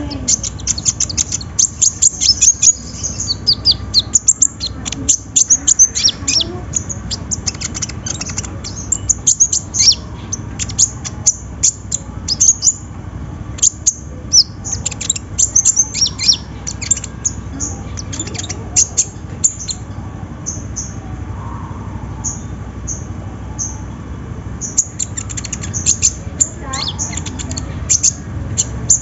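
A kolibri ninja (konin) sunbird singing rapid, very high, thin chirps and short trills in quick runs; the song thins to scattered notes about two-thirds through and turns busy again near the end.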